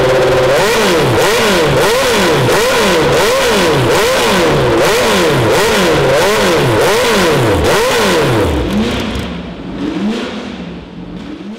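Jaguar XJR-14's 3.5-litre V8 racing engine revved repeatedly: a steady held note breaks into quick throttle blips, the pitch rising and falling about one and a half times a second. Near the end the blips slow and the sound fades away.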